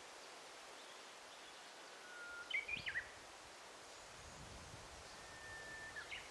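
A songbird calling over a steady, faint forest hiss: a held whistle, then a quick run of gliding notes a little before halfway, and near the end another long level whistle that ends with a flick upward.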